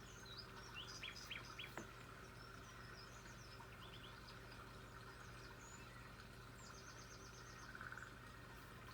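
Faint birdsong: several short high chirps and quick falling notes in the first two seconds, scattered calls after that, and a rapid run of repeated high notes about seven seconds in, over a steady low background hum.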